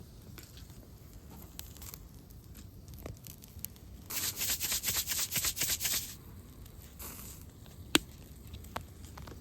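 Packaging being torn open: a quick run of crackly rips lasting about two seconds, followed a couple of seconds later by a single sharp clink.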